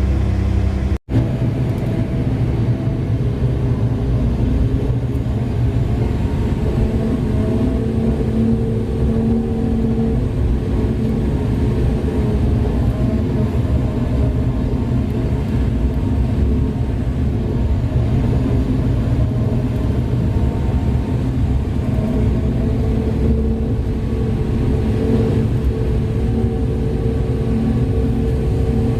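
Large mining haul truck's diesel engine running with a steady heavy, low rumble. There is a brief break in the sound about a second in.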